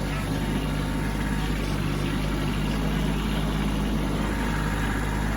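Kubota B2601 compact tractor's diesel engine running steadily at an even speed.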